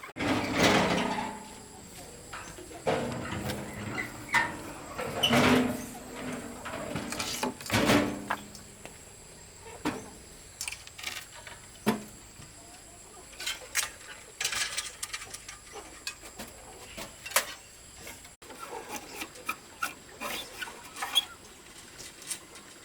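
Farm animals calling on and off, short pitched calls that cluster in the first half, with scattered knocks and clicks.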